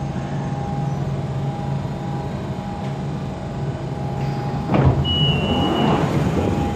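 London Underground Central Line train standing at the platform, its equipment humming steadily. About five seconds in there is a sudden loud burst of noise, followed by a short high beep lasting about a second.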